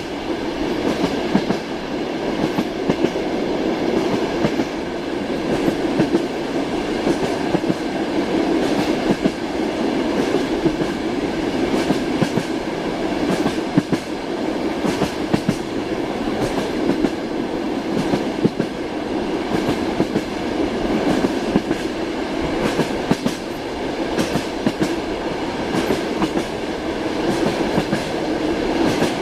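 Passenger train carriage riding along the rails: a steady rolling rumble with the clickety-clack of the wheels passing over rail joints, heard from inside the carriage.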